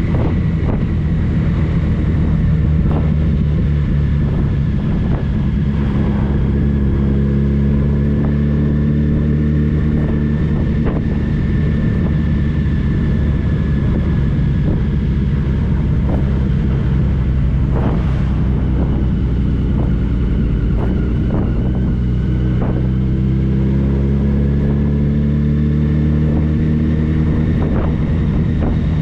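Touring motorcycle engine running at a steady cruise under wind rush, its pitch easing down and rising again slowly, with a few light knocks.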